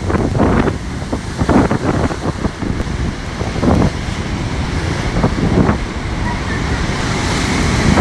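Strong gale-force wind buffeting the phone's microphone in irregular gusts, over the rush of storm surf breaking on the shore; a steadier hiss builds near the end.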